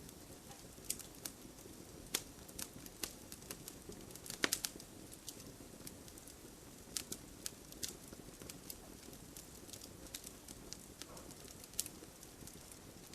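Wood fire burning in a fireplace: a steady low rumble of flames with irregular crackles and snaps, a cluster of louder pops about four and a half seconds in.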